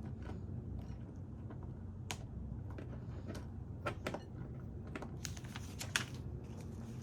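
Irregular sharp plastic clicks of LEGO pieces being handled and pressed together, a few at a time, over a steady low hum.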